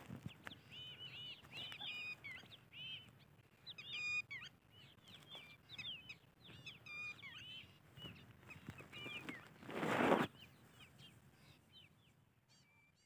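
Birds chirping repeatedly in many short calls that rise and fall. A brief rush of noise comes about ten seconds in, and the calls thin out near the end.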